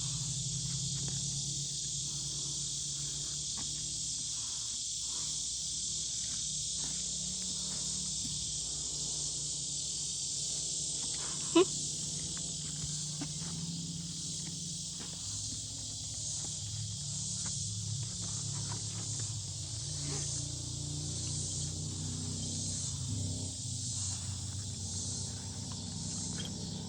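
Steady high-pitched insect drone, with a low hum beneath it and one sharp, loud click about eleven seconds in.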